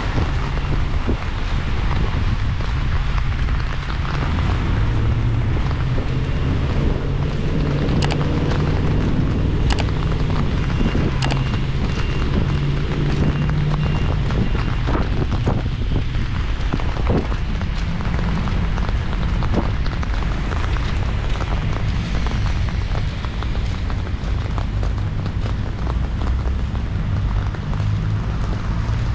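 Outdoor rain ambience: heavy wind buffeting on the microphone gives a steady low rumble over an even hiss of falling rain, with scattered small ticks and taps.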